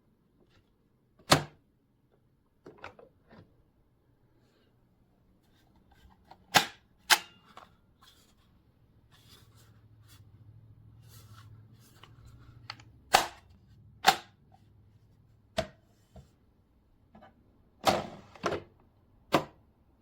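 A series of about a dozen sharp knocks and clicks at irregular intervals, with a faint low hum in the middle stretch.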